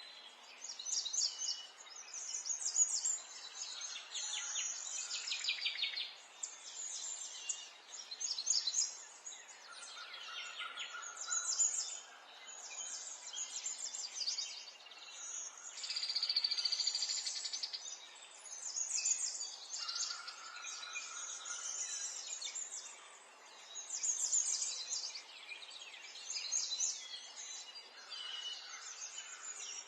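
Several small songbirds chirping and singing over one another, with high chirps and quick trills following almost without pause, over a faint steady background hiss.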